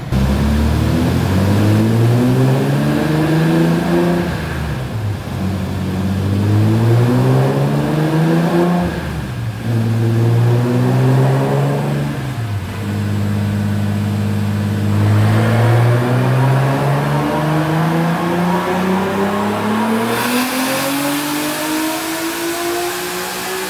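Turbocharged BMW E46 M3 inline-six running on a chassis dyno. Its revs climb in pitch several times and drop back between climbs, hold steady for a couple of seconds, then climb in one long pull, with a hiss rising over it near the end.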